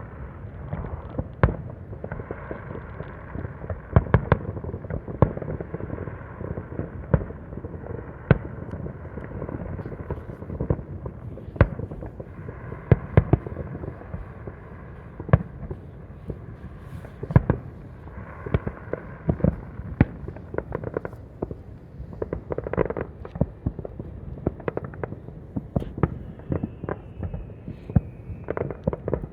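Aerial fireworks bursting all around, many sharp bangs at irregular intervals over a continuous rumble and crackle of more distant shells.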